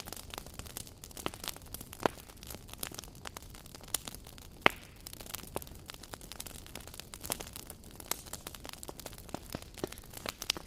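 Wood fire crackling, with irregular sharp pops and snaps over a soft hiss of burning. One pop about halfway through is the loudest.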